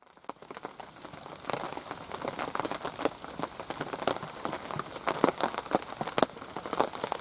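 Heavy rain pattering on a shelter roof overhead: a dense, steady mass of drop impacts that starts abruptly just after a cut.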